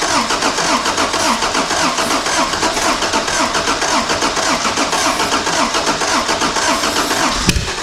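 1983 Honda Civic's 1.5L EM1 four-cylinder engine being cranked over by the starter at a fast, even rhythm, through a faulty ignition switch being worked around with a toggle switch. A sharp click near the end, after which the cranking stops.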